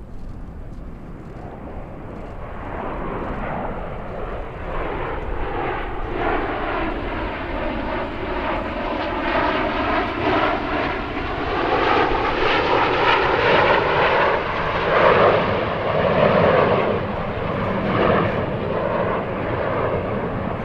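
CT-114 Tutor jets flying past, their turbojet engines building to a loud whoosh that peaks in the middle and later part, with the tone sweeping as they pass.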